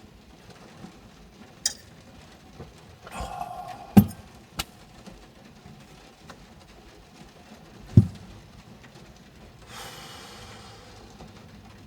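Objects being handled at close range: scattered clicks and clinks, two loud thumps about four and eight seconds in, and a brief hissing rustle near the end.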